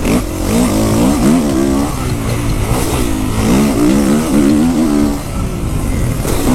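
Dirt bike engine revving hard, its pitch climbing and dropping over and over as the rider works the throttle and gears around a motocross track.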